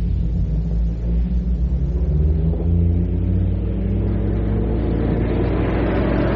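A motor vehicle engine running and drawing closer, growing louder toward the end, over a steady low hum on an old cassette recording.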